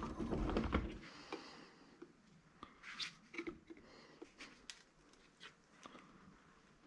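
Handling and prying at the parts of a handheld scanner being taken apart: a heavier clatter in the first second, then scattered small clicks and scrapes of plastic and metal pieces.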